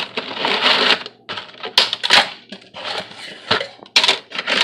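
Dry lasagna noodles being snapped and broken in half by hand: a run of irregular sharp cracks and crunches.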